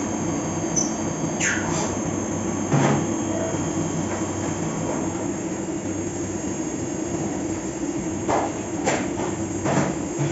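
Fagima Jazz M five-axis CNC milling machine cutting a part: a steady running drone from the spindle and cut, with a few short, sharp scraping hits from the tool, one about three seconds in and a cluster near the end.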